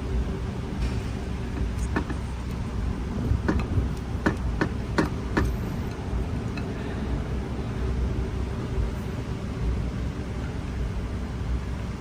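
A handful of sharp little metal clicks and taps, bunched in the first half, from transmission valve-body parts being handled and checked, over a steady low background hum.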